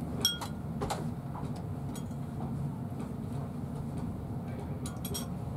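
Class 43 HST (InterCity 125) heard from inside a passenger coach as it moves off slowly: a steady low rumble from the train, with a few sharp clicks scattered through, a small cluster of them near the end.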